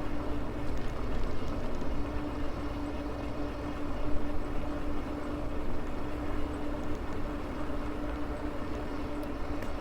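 Maxtron Mule folding e-bike under way: its electric motor gives a steady whine at one pitch over a low rushing of wind and tyre noise.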